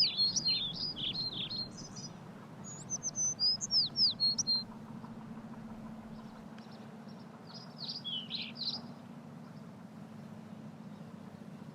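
A small bird singing rapid phrases of high chirps and down-slurred whistles in three bursts: one at the start, another about three seconds in, and a fainter one about eight seconds in. A steady low hum runs underneath.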